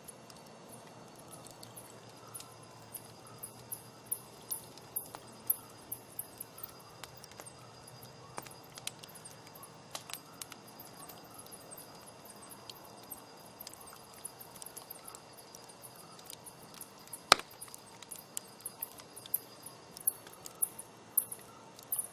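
Wood campfire burning and crackling, with irregular small pops and snaps throughout and one loud, sharp snap about 17 seconds in.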